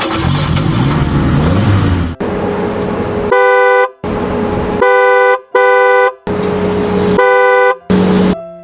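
Vehicle horn honking in four loud two-note blasts, with quieter horn stretches between them. Before the honking there are about two seconds of engine noise with rising and falling pitch.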